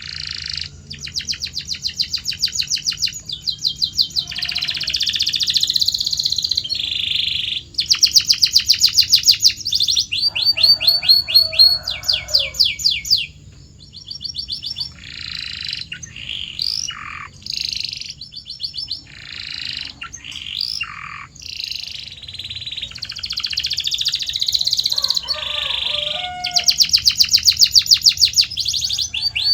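Canary singing a long song of fast trills and rolls: runs of rapidly repeated high notes alternating with short sweeping whistles, broken by brief pauses.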